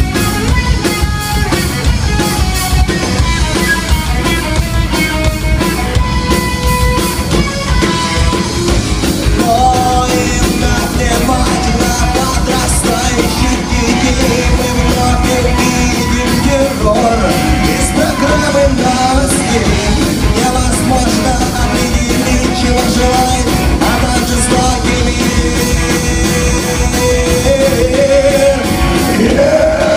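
Rock band playing live, loud and continuous, with a sung or lead melody line over the band.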